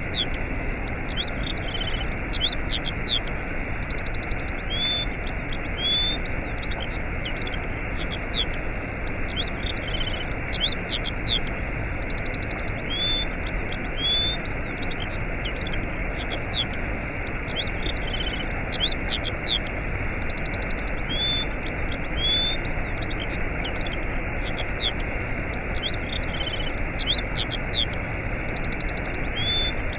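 Steady rush of a waterfall with small birds chirping and whistling over it; the same run of bird calls repeats about every eight seconds.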